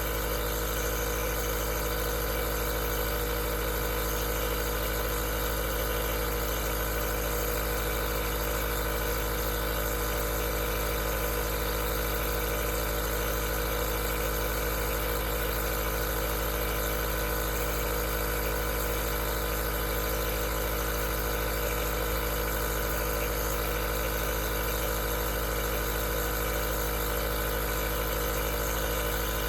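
Aerosol nebulizer's small compressor running with a steady, unchanging mechanical hum.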